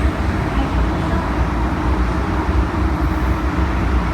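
MTR M-Train running, heard from inside the cabin: a steady low rumble with even wheel and running noise and no rise or fall in pitch.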